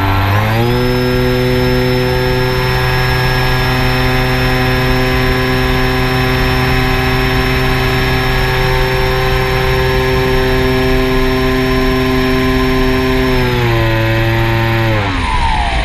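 Quadcopter drone's motors and propellers humming at a steady pitch. The pitch rises about half a second in and falls in two steps near the end as the throttle changes.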